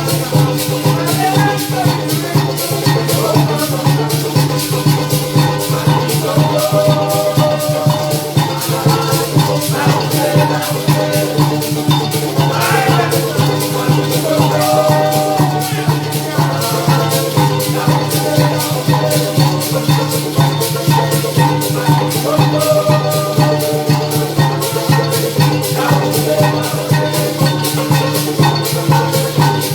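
Live parang music: a string band with maracas shaking a steady, fast beat under a moving melody.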